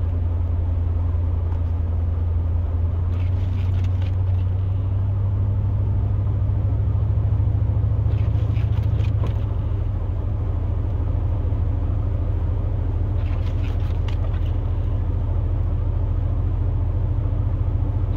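Steady low drone of a pickup truck's engine and road noise heard inside the cab while driving, swelling slightly about halfway through.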